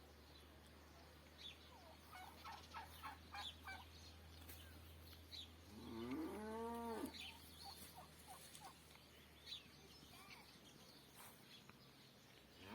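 Faint farmyard animal calls: a quick rattling series of calls a couple of seconds in, then one longer pitched call that rises and falls around six seconds in. Small birds chirp now and then over a steady low hum.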